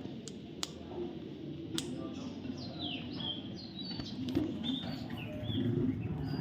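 Young parrot chirping: a series of short, high chirps that slide down in pitch, with a few sharp clicks between them.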